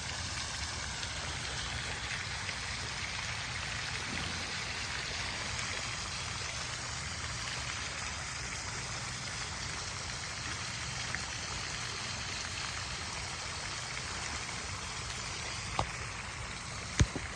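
Steady rush of flowing stream water, with a couple of brief sharp clicks near the end.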